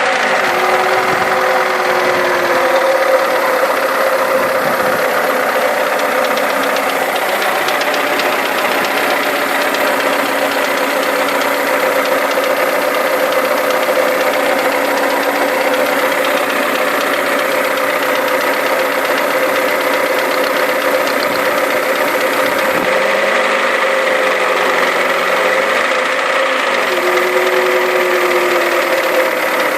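Honda B20B inline-four engine running at a steady idle with a persistent clicking chatter, which carries on although the valves have been adjusted.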